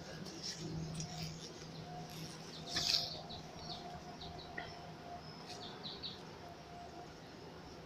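Small birds chirping in short, scattered calls among trees, with one louder, sharper sound about three seconds in, over a faint steady low hum.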